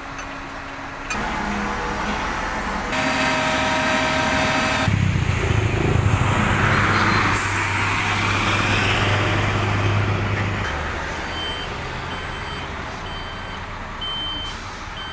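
Heavy diesel engines of the recovery crane and trucks running, with a loud steady engine hum in the middle. A vehicle's reversing alarm beeps repeatedly in the last few seconds. The sound changes abruptly several times.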